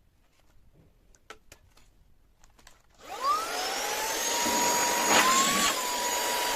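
Handheld rechargeable car vacuum switched on about three seconds in: its motor spins up with a rising whine, then runs at a steady high whine over rushing air. It is switched off at the end and winds down quickly.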